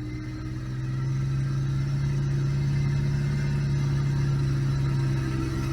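All-terrain vehicle engine running steadily, getting a little louder about a second in and then holding level.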